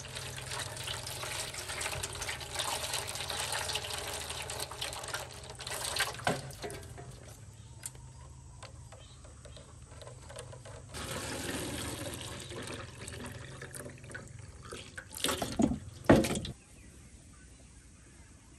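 Running water for about the first six seconds, stopping, then running again briefly; a few loud knocks come near the end.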